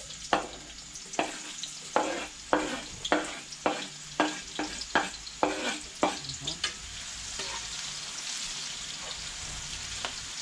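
Chopped onion and pepper frying in hot oil in a wok, with a steady sizzle. Over the first six or seven seconds about a dozen sharp knocks come roughly two a second as a spoon scrapes and taps the food off a wooden cutting board into the pan; after that only the sizzle and some stirring go on.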